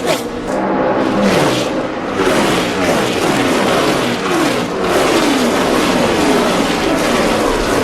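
NASCAR Cup cars' V8 engines at full speed as the cars pass one after another, each engine note falling in pitch as it goes by.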